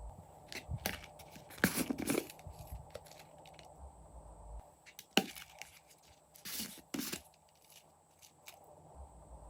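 Slime being squished and stretched by hand, giving irregular sticky crackles and pops, loudest about two seconds in and again around five and seven seconds.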